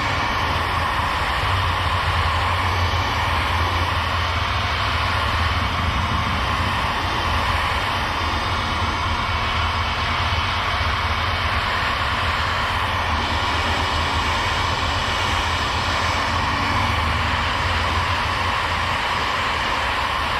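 Electric heat gun blowing steadily, its fan motor running with a continuous whirring rush of hot air, as it is played over faded black plastic trim to bring back its colour.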